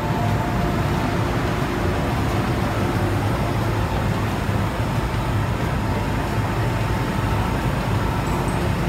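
MTR M-Train, an electric multiple unit on the Tsuen Wan Line, running at the station platform: a steady rumble with a faint steady whine above it.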